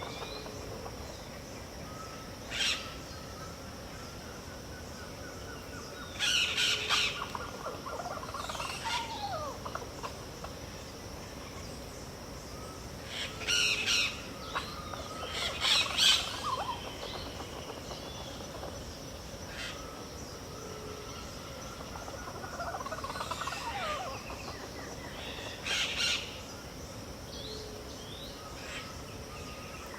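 Dawn bird chorus in the Pantanal wetland: several birds calling over one another, with loud harsh calls recurring every few seconds, softer whistled and gliding calls, and low notes between them. A steady high-pitched drone runs underneath.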